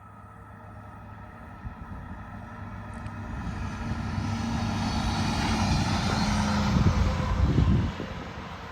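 A train approaching and passing close by: a steady low hum under a rumble and rail noise that grows louder for about seven seconds, peaks, then drops away sharply near the end.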